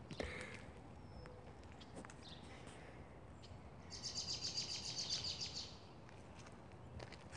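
A bird singing a fast trill of high, evenly repeated chirps for about two seconds, starting about four seconds in, over faint outdoor background.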